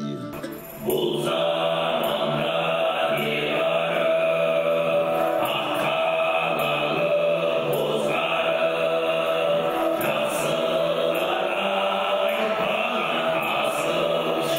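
Mongolian khoomei throat singing: a low sung drone with a bright, high overtone held steadily above it. It starts after a short dip about a second in.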